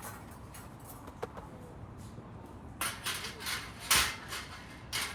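Knocks and clatters of gear being handled: a small knock about a second in, a few more near three seconds, and the loudest just before four seconds.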